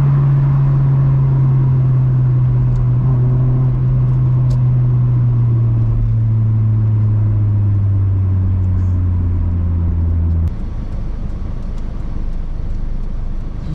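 Honda Civic EP2's 1.6 four-cylinder through a catback exhaust, a steady low drone whose pitch slowly falls as the revs drop. About ten seconds in it cuts off suddenly, leaving quieter road noise.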